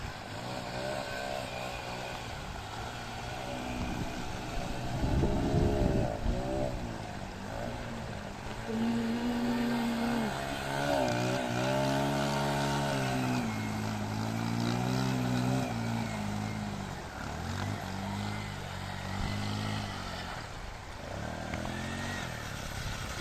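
Yamaha XTZ 125's single-cylinder four-stroke engine revving up and down repeatedly under load as the motorcycle is ridden through a strong river current, over a steady rush of water noise.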